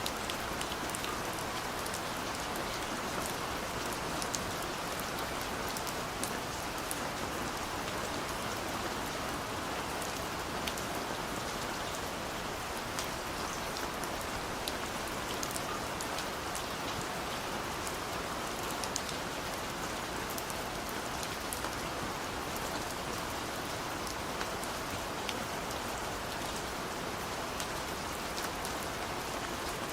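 Steady rain falling on a surface, an even hiss with many small drop ticks scattered throughout.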